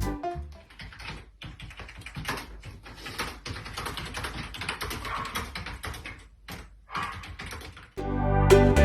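Rapid, irregular clicking and tapping, much like typing on a keyboard. Background music fades out in the first half second and comes back about eight seconds in.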